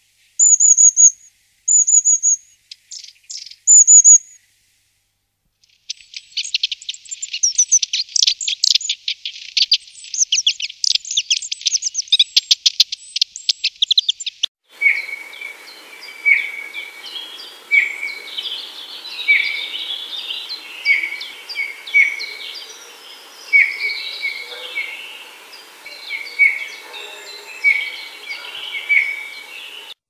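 Bird songs from separate recordings: first a few high, thin whistled notes, then a fast, dense run of chirping notes for about eight seconds, then, from about halfway, one bird repeating a short call every second or so over a chorus of other birds.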